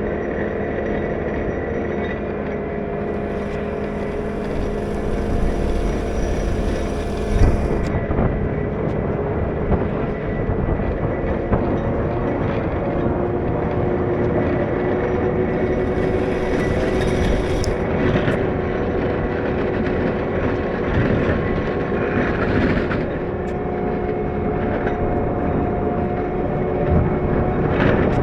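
CAT 908 compact wheel loader running steadily while pushing snow, its engine and hydraulics giving a steady hum with a whine on top. Twice it adds a spell of hiss lasting a few seconds, and there is a single thump about seven seconds in.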